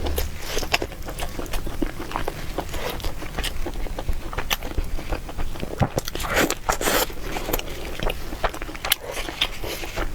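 Close-up eating sounds: a person biting and chewing food, with irregular mouth clicks and smacks throughout.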